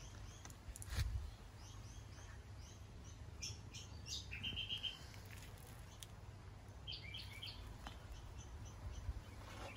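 Birds chirping faintly in two short bursts of quick, high repeated notes, over a low rumble, with a single thump about a second in.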